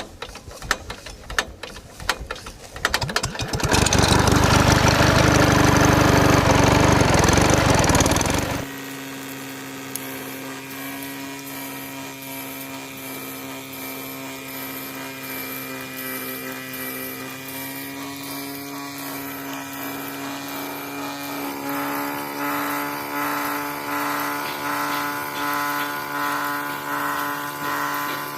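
Small electric motor of a homemade mini water pump running. It starts with a rapid rattle, then makes a loud, rough noise that stops abruptly, and settles into a steady hum that pulses in a quick beat near the end.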